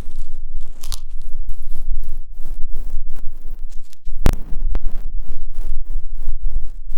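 ASMR ear-cleaning sounds: an ear pick scraping and scratching close against a microphone in quick, irregular strokes, with a crackly, crunchy texture and a sharper knock about four seconds in.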